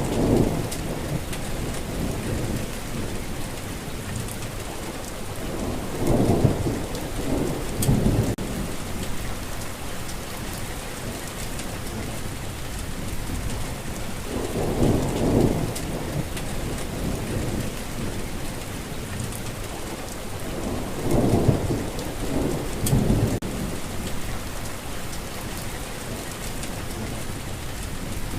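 Steady rain falling, with low rumbles of thunder swelling up and fading about four times.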